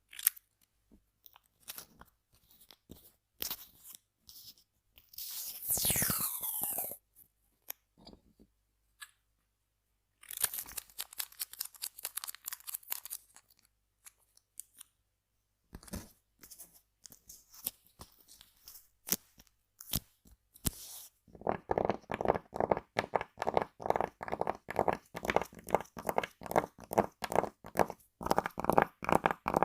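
ASMR tapping, scratching and crinkling on assorted objects such as tape and glass bottles. In the first half there are scattered crackles, scratches and short falling sweeps. From about two-thirds of the way in comes quick, even tapping with a ringing pitch.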